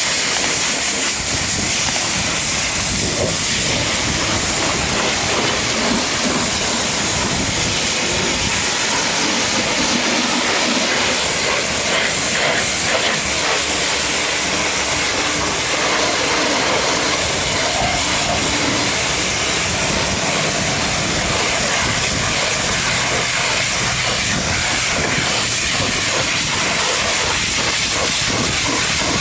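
High-pressure washer spray hitting a truck: a steady, loud hiss of water that keeps going without a break.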